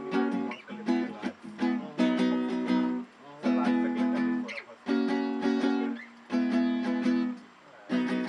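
Music: chords strummed on an acoustic string instrument in a steady, repeating rhythm, without singing.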